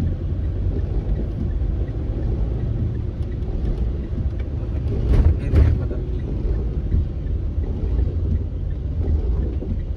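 Car engine and road rumble heard from inside the cabin, low and steady. There is a brief louder swell about five seconds in.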